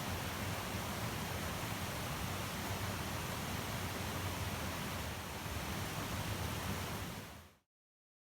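Wind blowing across the microphone on an exposed mountain ridge: a steady rushing noise with a restless low rumble, which cuts off abruptly near the end.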